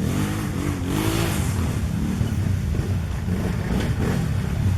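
Quad bike (ATV) engine running and revving, its pitch rising and falling several times, over a rushing noise.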